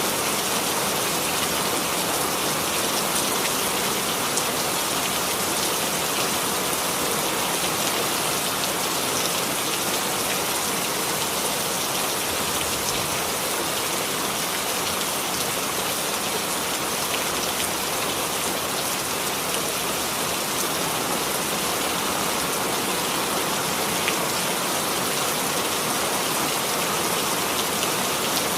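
Steady rainfall, an even hiss of rain with scattered drop patters, unchanging throughout.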